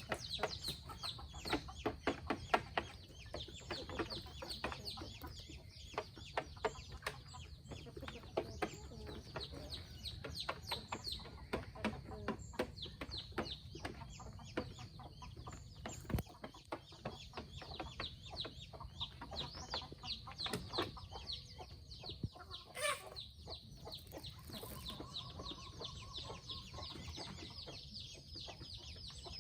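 Free-range chickens clucking, with many short, quick calls in rapid succession.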